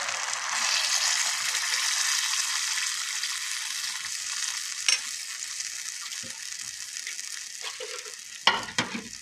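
Diced vegetables frying in oil in a clay pot sizzle as blended tomato and chile salsa is poured over them. The sizzling dies down gradually, with one sharp knock about five seconds in and a few clunks near the end.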